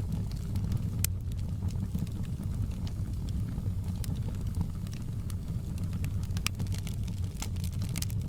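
Wood fire in a fireplace crackling: a steady low rumble of the flames with scattered sharp pops and snaps at irregular moments, one of the sharpest about a second in.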